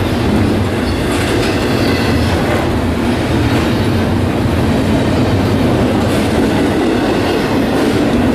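Train passing close by, its wheels rumbling steadily over the rails.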